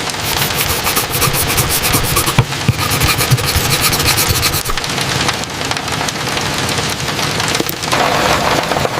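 Steady, loud rain falling, a dense hiss of drops that shifts slightly in tone near the end.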